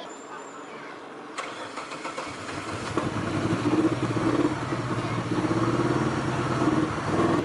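A sharp click, then a small car engine starting up about two to three seconds in and running at a steady idle.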